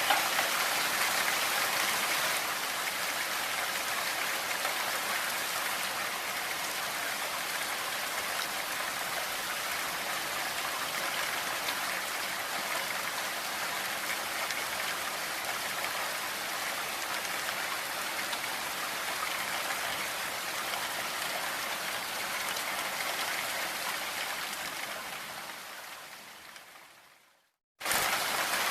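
Steady hiss of rain mixed with pink noise. Near the end it fades away to a brief silence, then starts again abruptly.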